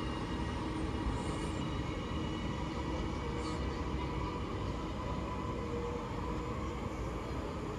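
Passenger train moving through the station: a steady rumble with several held whining tones, easing off a little toward the end.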